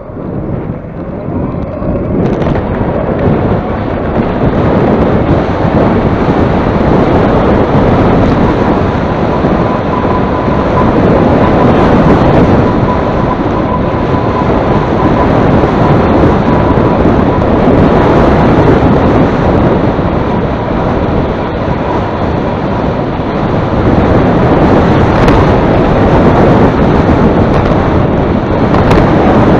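Strong wind buffeting the microphone in a loud, continuous rumble while riding into a headwind. A faint steady whine sits under it through the middle.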